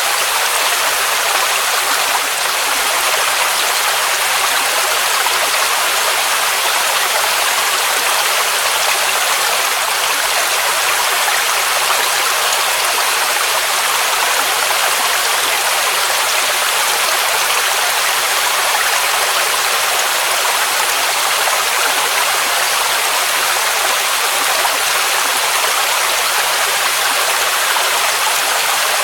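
Waterfall rushing steadily: a dense, even hiss of falling water with little deep rumble and no breaks or changes.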